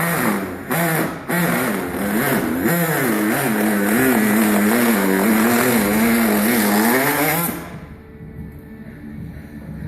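An engine running with a wavering pitch, cutting off suddenly about seven and a half seconds in.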